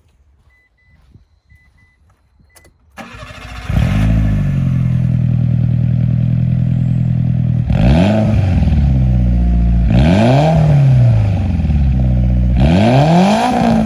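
Mitsubishi 4A30 660 cc four-cylinder engine starting about three seconds in, settling to a steady idle, then revved three times, each rev rising and falling in pitch, heard through an exhaust whose muffler the owner says has burnt out, changing its sound.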